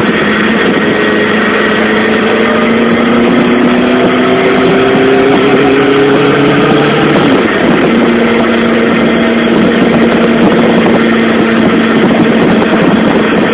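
Suzuki GSX-R SRAD's inline-four engine under way, its note slowly rising in pitch under acceleration, then dropping sharply about seven seconds in at a gear change and holding steady. A steady rush of wind and road noise runs underneath.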